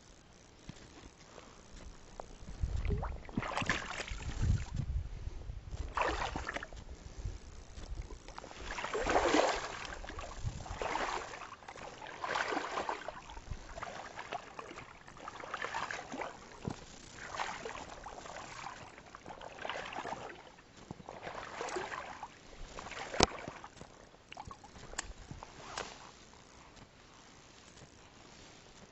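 Kayak paddle strokes dipping and splashing in the water, one every second or two. There is a single sharp knock near the end.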